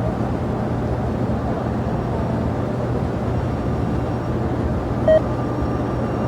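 Steady drone of jet aircraft engines at an airport, with one short beep about five seconds in.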